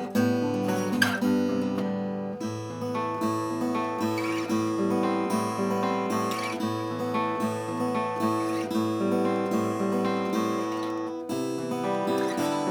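S.Yairi YD-303 vintage steel-string acoustic guitar being played, plucked and strummed notes ringing on over bass notes. The playing breaks off briefly and starts a new phrase about eleven seconds in.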